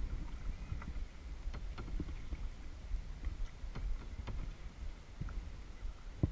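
Kayak paddling: scattered light knocks and splashes from the paddle and hull over a steady low rumble, with a sharper knock near the end.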